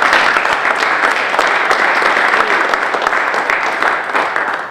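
A congregation applauding, a loud dense clatter of many hands clapping that begins to die away near the end.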